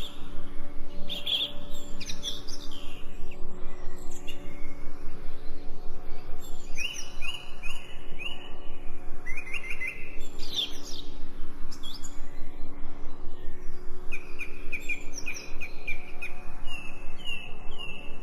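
Small birds chirping and singing, several quick series of short repeated notes one after another, over a steady low drone.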